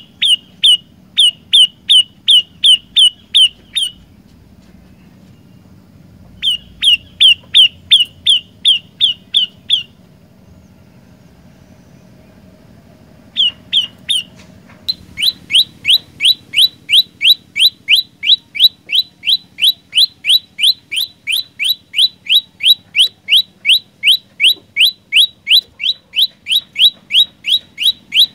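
Prenjak lumut singing a long series of sharp, quick chip notes, each dropping in pitch, about two or three a second. It sings in runs of a few seconds with short pauses, then carries on without a break from about halfway.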